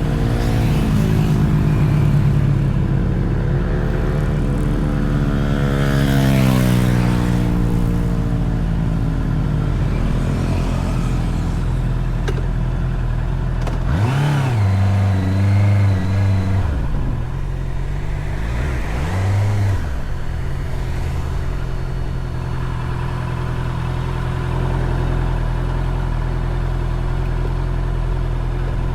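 Honda CBR650R motorcycle's inline-four engine running under way. Its pitch rises through a pull of several seconds, it revs sharply twice about halfway through, then it settles to a steady drone.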